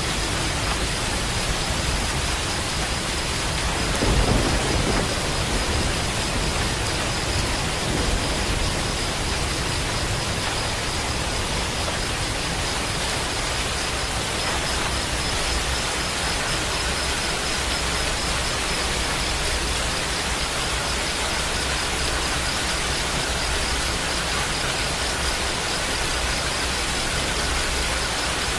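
Steady heavy rain hissing, with a brief low rumble of thunder about four seconds in. A faint thin high tone runs through the rain.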